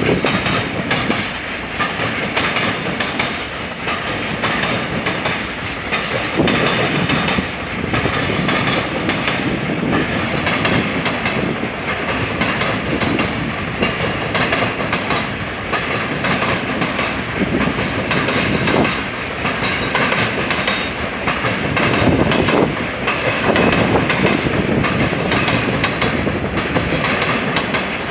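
A long JR Freight freight train rolling past at close range. Its wheels clatter over the rail joints, with the low rumble surging every few seconds as each wagon's wheelsets pass.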